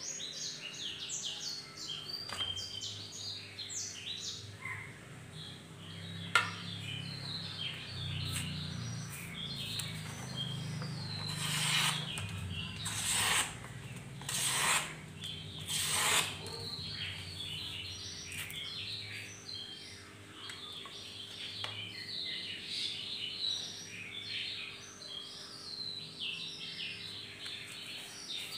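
Small birds chirping continuously in quick, high calls. Around the middle come four short noisy swishes, about a second and a half apart, and a few seconds before them a single sharp click.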